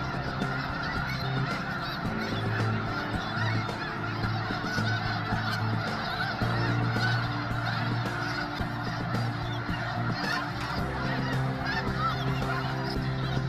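A huge flock of geese honking continuously, with countless calls overlapping into one dense din. A low steady hum runs underneath and drops out now and then.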